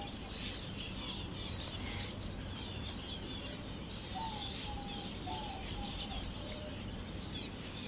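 A flock of small aviary finches chirping, a steady dense twitter of high calls, with a short run of lower whistled notes about four seconds in.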